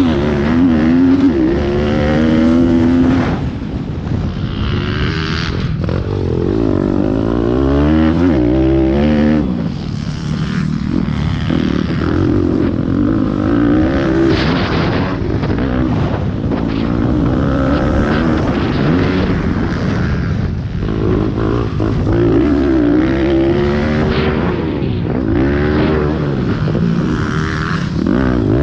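Pit bike engines revving hard and dropping back again and again as they are ridden round a race track, the pitch climbing and falling every second or two.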